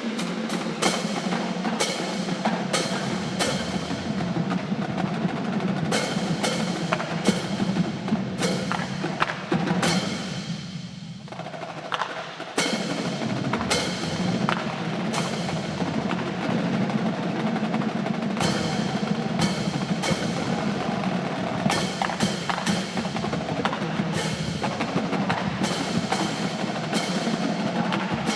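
Marching drum line of snare drums and bass drums playing a fast battle cadence with rolls and sharp accented strokes. It drops to a brief quieter passage about ten seconds in, then comes back at full volume about two seconds later.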